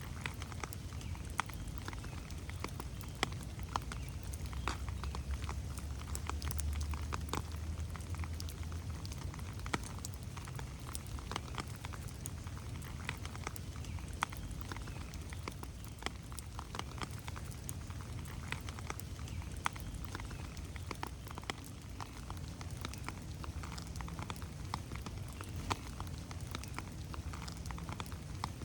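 Steady rain falling in a forest, with many separate drops landing as sharp ticks. A low rumble swells and fades between about four and nine seconds in.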